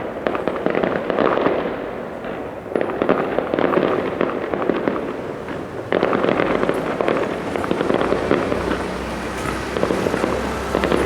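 Fireworks display: a dense, continuous crackle of many rapid small bursts, swelling afresh about three seconds in and again about six seconds in.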